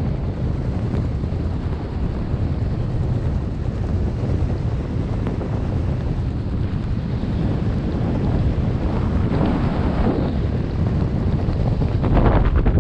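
Wind buffeting the microphone in a steady low rumble, growing louder near the end.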